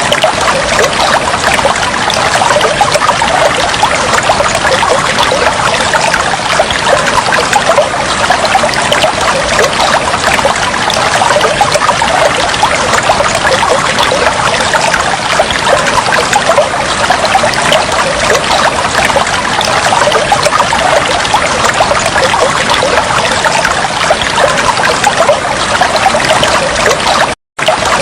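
Water trickling and flowing steadily, a dense bubbling babble. It cuts out completely for a split second near the end, then resumes.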